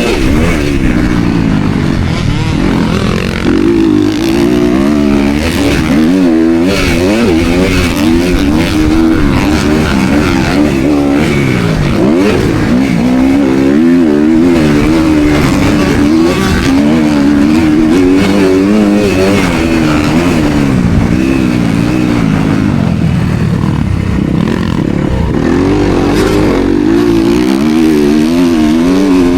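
Motocross dirt bike engine heard close up from an onboard action camera, loud and revving up and down again and again as the throttle is opened and shut and the gears are changed.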